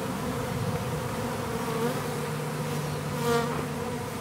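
A swarm of honeybees buzzing steadily, with a brief louder buzz a little after three seconds in.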